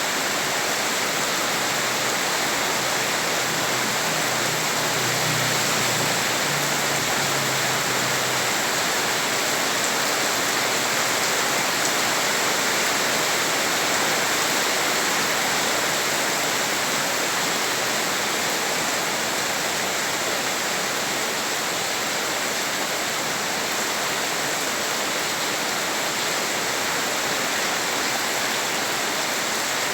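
Heavy rain falling steadily on a flooded street, a dense even hiss of rain and splashing water. A faint low hum sits under it for a few seconds near the start.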